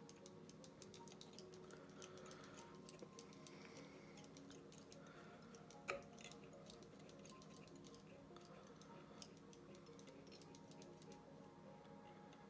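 Faint background music with light, rapid ticking of fly-tying thread being wound around the hook from a bobbin, and one sharper click about six seconds in. The ticking thins out near the end.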